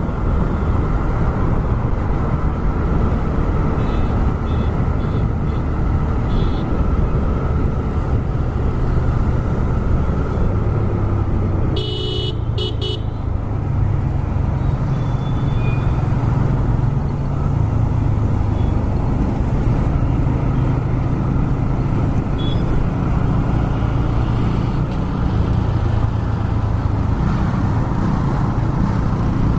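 TVS Raider 125's single-cylinder engine and exhaust running under way, its note stepping up and down as the speed changes, with wind rushing over the helmet microphone. A vehicle horn toots once for about a second, about twelve seconds in.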